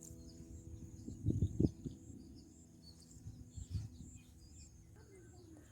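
Faint outdoor ambience with scattered bird chirps, and a few low thumps about a second and a half in and again near four seconds.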